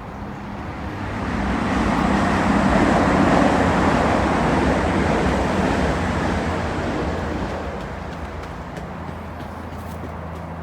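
A passing vehicle heard as a smooth rush of noise that swells to a peak about three seconds in and fades away, over a steady low hum.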